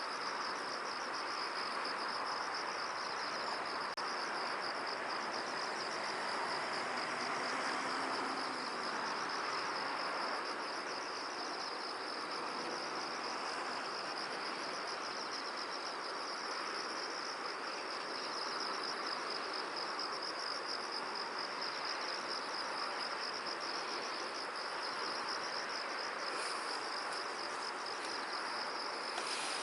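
Insects trilling steadily in a continuous high, rapidly pulsing chorus, over an even background hiss.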